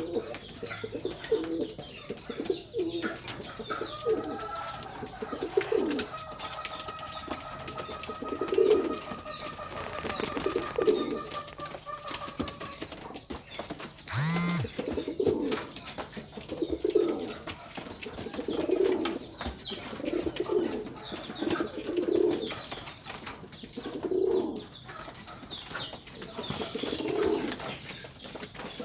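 Domestic pigeons cooing, low coos repeating every second or two. A thin steady whistle-like tone runs underneath for several seconds early on, and a short upward-sliding squeak comes about halfway through.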